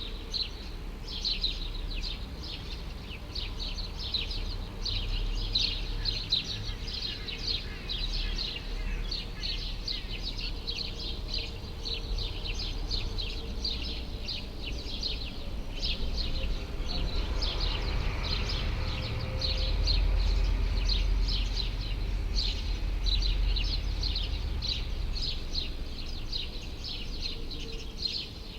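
A flock of small birds chirping continuously, many quick chirps a second. Under it is a low rumble of city traffic that swells for several seconds past the middle.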